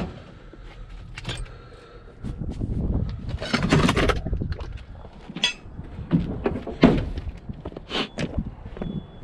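Irregular knocks, clunks and clattering, loudest in a burst about three to four seconds in and in a sharp knock near seven seconds, over a low rumble.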